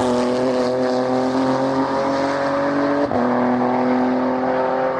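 Race car engine pulling hard at high revs, its pitch climbing steadily, with a brief break and drop in pitch about three seconds in as it shifts up a gear before climbing again.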